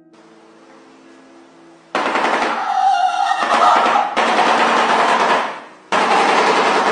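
Shoebill clattering its bill: a loud, rapid machine-gun-like rattle, starting about two seconds in, breaking off briefly and starting again near the end.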